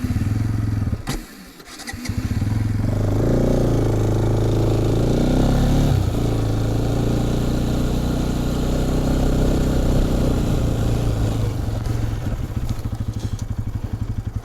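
Motorcycle engine starting, dying after about a second, then starting again and revving up before settling into a steady idle.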